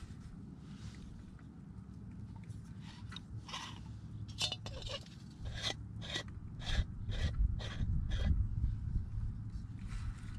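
Brass Trangia spirit burner's screw cap being twisted off by hand: a run of about eight short gritty metal scrapes and clicks, roughly two a second, over a steady low rumble of wind on the microphone.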